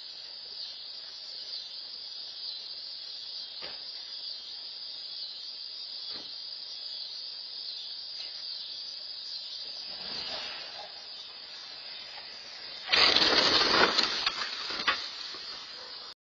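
Dashcam recording with a steady high-pitched hiss throughout, then a sudden loud crash of noise with several sharp knocks about thirteen seconds in, lasting about two seconds; the sound cuts off suddenly near the end.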